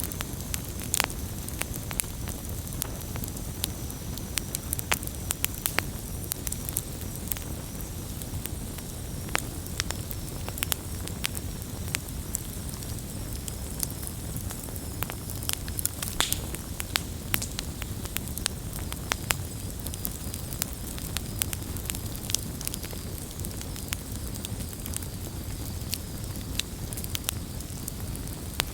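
Wood campfire burning steadily, with a low rumble of flames under frequent sharp, irregular crackles and pops of burning wood.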